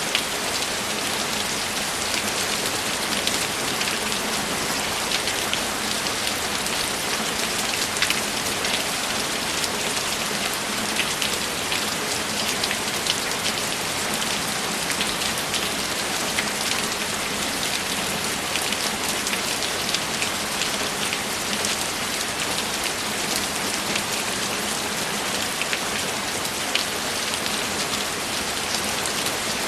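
Steady rainfall, with many individual drops ticking close by over an even hiss.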